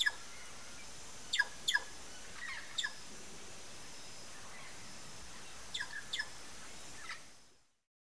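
A bird calling in short, steeply falling notes, several times and some in quick pairs, over a steady outdoor hiss. The sound fades out just before the end.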